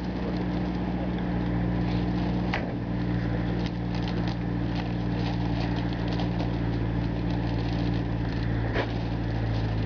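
An engine idling steadily at a constant speed, with scattered light clicks and knocks over it.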